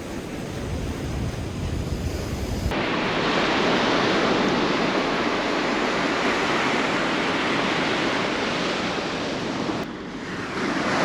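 Surf washing up a sandy beach, a steady loud wash of waves, with low wind buffeting the microphone for the first few seconds. The sound changes abruptly about three seconds in and dips briefly near the end.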